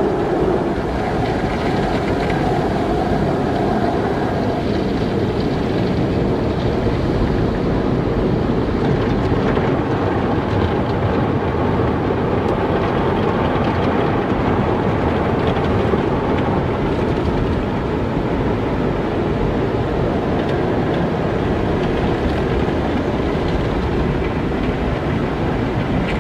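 Car wash running: a steady, even rush of machinery noise, with a faint hum over it that fades out about four seconds in.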